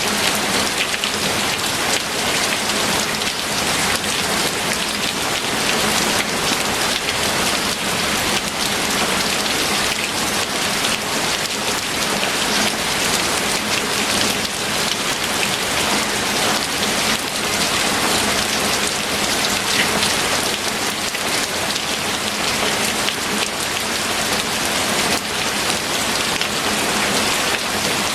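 Steady heavy rain falling, a dense hiss of many drops pattering on a surface, with no letup.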